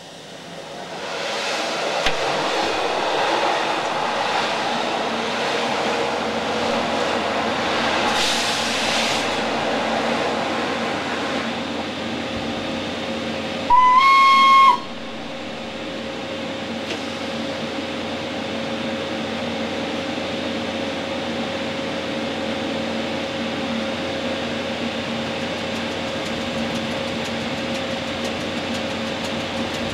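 An oncoming Rhaetian Railway train with red coaches rushes past close alongside, its noise swelling in the first second and fading after about twelve seconds. A train horn then sounds once for about a second, and the steady running noise of the Ge 6/6 I electric locomotive carries on.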